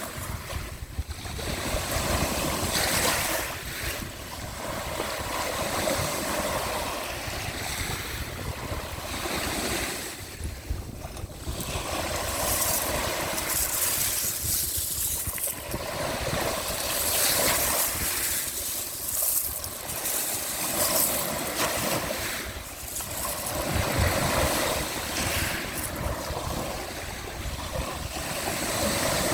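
Sea waves washing in and drawing back, swelling and easing every few seconds, with wind rumbling on the microphone.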